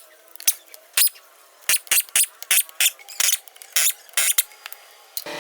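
A dozen or so irregular, sharp clicks and knocks from hand tools and metal parts being handled during a rear axle repair. Just before the end, a steady hum with several held tones starts.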